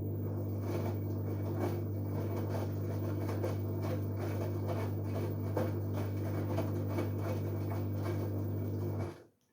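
LG Direct Drive 8.5 kg front-loading washing machine turning its drum during the wash: a steady motor hum with a rustle and clatter of tumbling laundry, stopping about nine seconds in.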